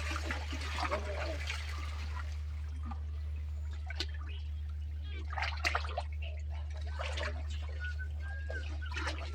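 Floodwater splashing and trickling in short patches over a steady low hum.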